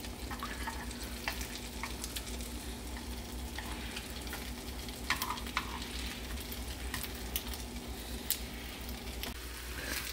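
Sausages and king oyster mushrooms frying in butter in a square pan: a steady sizzle with scattered pops and crackles.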